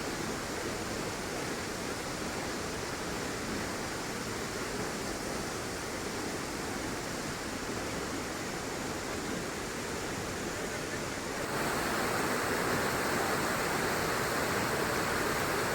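Steady rushing of a waterfall's falling water, with no pitch or rhythm to it. It becomes abruptly louder about eleven and a half seconds in.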